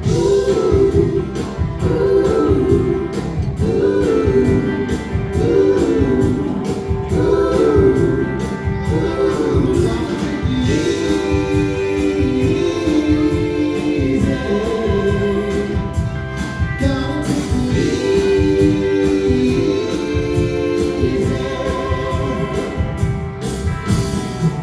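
Live band music with a steady beat and wordless vocal harmonies.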